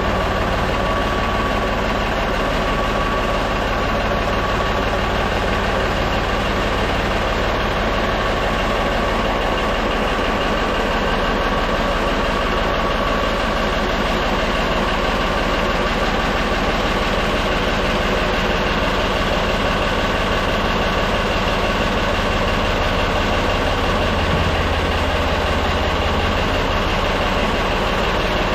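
Ford tractor-loader-backhoe engine idling steadily, with a brief swell in its low note near the end.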